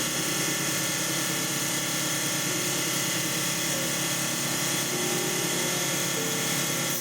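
A power tool running steadily, likely a grinder or sander sharpening the machete blade.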